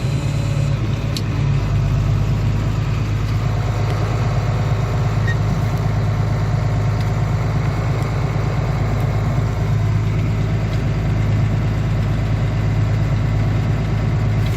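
Tractor diesel engine running steadily with a constant low drone.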